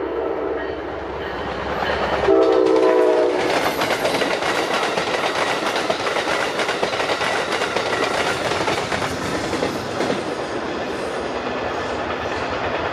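Amtrak passenger train led by a P42DC diesel locomotive. A horn blast ends just after the start and a second short blast sounds about two seconds in. The train then passes over the crossing with steady wheel clatter on the rails.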